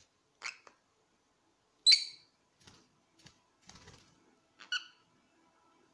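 Pet parrots giving short, sharp high-pitched calls, three of them spaced a second or more apart, the loudest about two seconds in, with a few faint clicks and a brief scratchy rustle in between.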